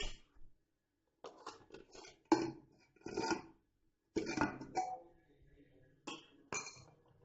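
Metal clinks and clatters as a cake tin is taken out of a pressure cooker, about seven short knocks with a brief ring after each.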